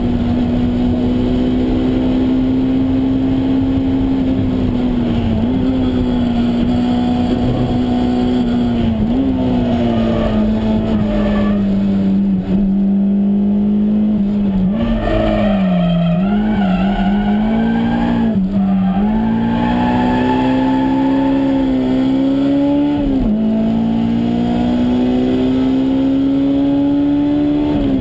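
Honda S2000's four-cylinder VTEC engine at high revs, heard from inside the cabin. The revs climb steadily, drop sharply at each upshift, and through the middle fall and jump repeatedly under braking and downshifts for a corner before pulling up again.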